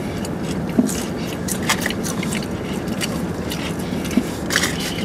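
Eating fries: chewing with a few short crunchy clicks, strongest near the end, over a steady low hum in the car's cabin.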